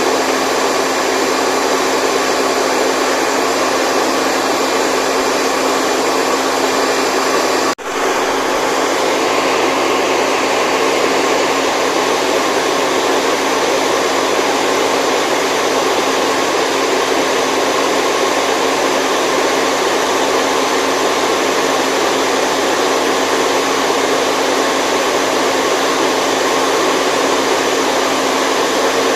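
Steady whooshing hum of an appliance blower motor, used as sleep white noise, with faint steady tones running through it. The sound drops out for an instant about eight seconds in and returns unchanged.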